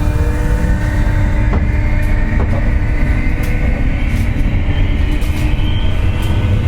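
Running noise inside a JR West 201 series armature-chopper electric train's motor car: a steady rumble of wheels on rail with a few sharp clicks, under a whine that slowly rises in pitch. The whine is the 'jet sound' of traction-motor bearings damaged by electrical corrosion.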